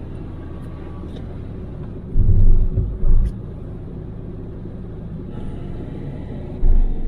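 Nissan NV200 campervan driving, a steady low engine and road rumble, with three brief louder low thuds about two seconds in, around three seconds and near the end.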